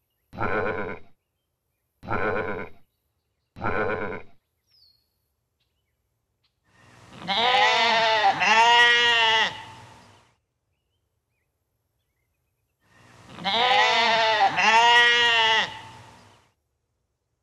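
Sheep bleating three times in short calls about a second and a half apart, then a goat giving two long bleats of about three seconds each, each broken in two.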